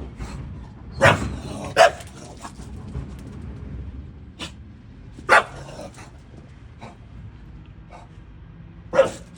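English bulldog barking: four short, loud barks spaced out over several seconds, over a steady low rumble.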